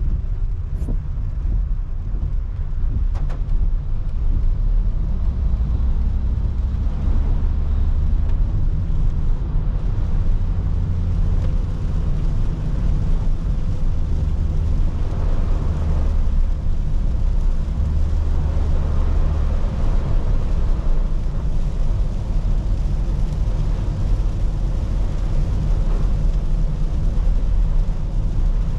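Car driving on a wet road in the rain: a steady low rumble of road and engine noise with an even hiss of tyres and rain.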